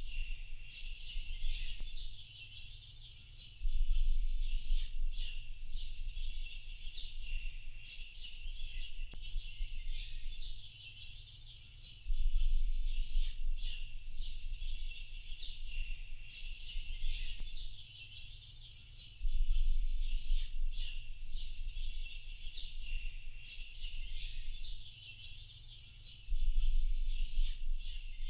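A dense chorus of songbirds chirping and twittering without pause, high-pitched. Under it, a low rumble sets in suddenly four times, about every seven to eight seconds, and fades away each time; the rumble is the loudest part.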